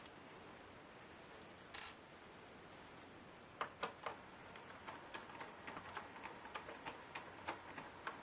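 Small clicks and taps from hands and a tool working on a laptop being taken apart, with a brief scrape about two seconds in and irregular clicks, several a second, from about halfway through.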